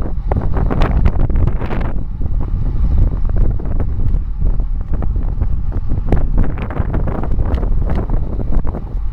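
Heavy wind buffeting the microphone of a camera on a bicycle descending fast, about 25 to 35 mph. It makes a steady low rumble with crackles, heavier for the first two seconds.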